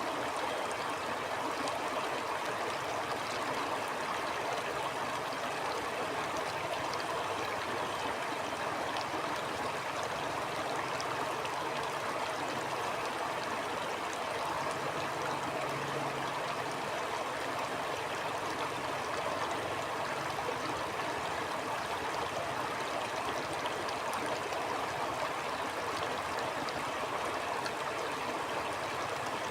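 Stream flowing steadily, an even rush of running water that stays the same throughout.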